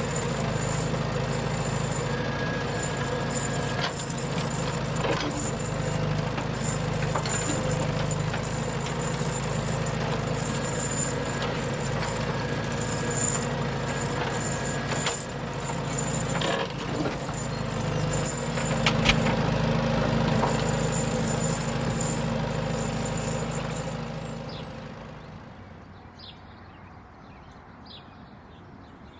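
A machine running with a steady hum and scattered clicks and rattles, fading away about twenty-five seconds in.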